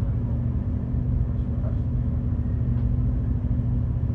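Passenger ferry's engines running steadily under way, a constant low drone with a steady hum, heard on board.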